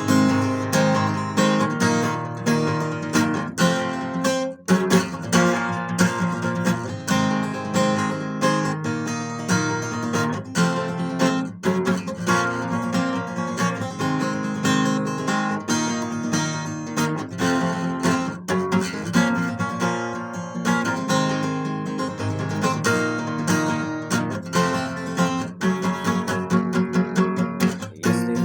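Acoustic guitar strummed in a steady rhythm, chords with no voice, on a guitar that is missing one string.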